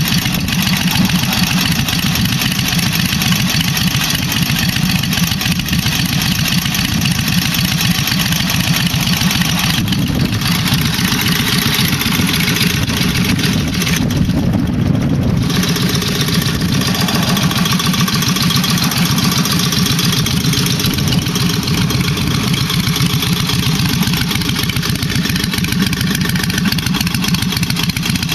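1948 Indian Chief's flathead V-twin engine idling steadily with a rapid, even beat, on its first run after a rebuild.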